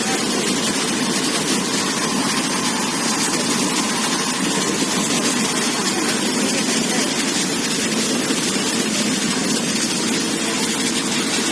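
Boat engine running steadily at constant speed, with water and wind noise over it.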